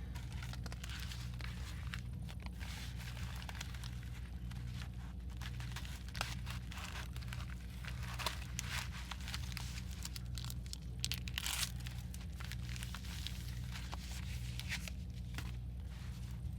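Paper and packing materials being handled: irregular rustling, crinkling and tearing, with louder rustles about eight and eleven seconds in, over a steady low hum.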